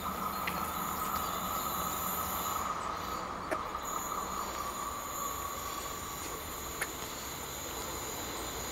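Railway trackside ambience as a train approaches from far down the line: a faint steady rumble and hiss with a steady high tone that fades out about two-thirds of the way through, and a few faint clicks.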